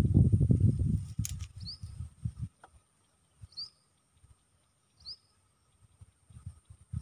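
Low rumbling noise on the phone's microphone for the first two seconds or so, then quiet. A bird gives three short high chirps about a second and a half to two seconds apart.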